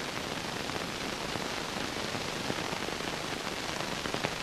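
Steady hiss and crackle of an old film soundtrack, with a few faint clicks.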